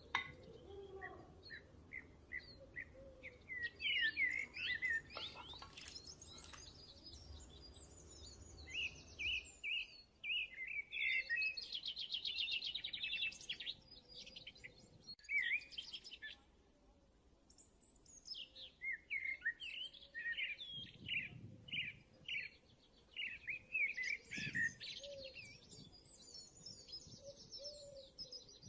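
Small birds chirping and singing, with fast trills among the calls; the chirping thins out for a few seconds past the middle, then picks up again.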